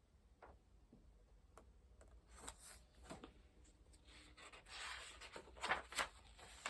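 Faint paper handling: light clicks and a soft rustle as a picture book's page is turned, the rustle longest about five seconds in, followed by two sharper taps.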